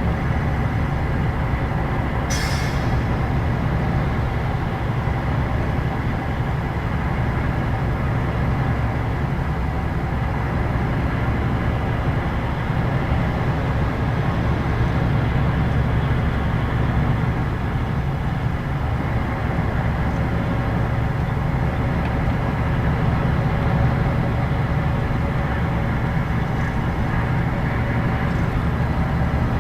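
Scania K113 CLB bus's 11-litre straight-six diesel running steadily under way, a low engine and road rumble heard from inside the Carrus Star 502 body. A short, high hiss comes about two seconds in.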